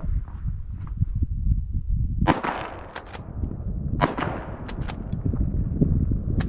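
Two shotgun shots, one a little over two seconds in and the next under two seconds later, with a few thinner sharp cracks around them, over steady wind rumbling on the microphone.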